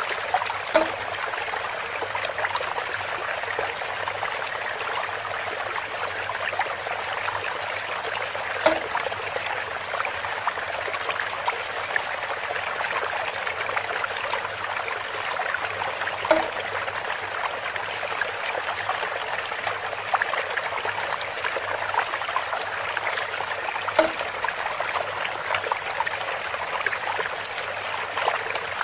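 Water trickling steadily through a bamboo water fountain, with a short, hollow knock four times, about every eight seconds.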